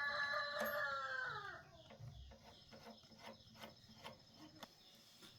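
Rooster crowing: the end of a long crow that is already under way, held and then falling in pitch before it stops about a second and a half in. Faint scattered clicks follow.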